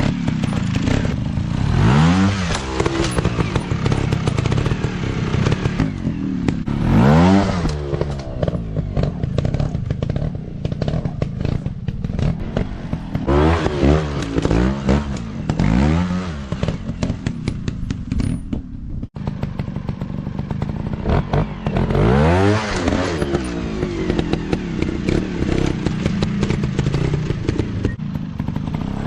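Dirt bike engines revving over and over, the pitch climbing and falling in quick throttle blips, with clattering and knocking throughout. The sound cuts out for an instant about two-thirds of the way through.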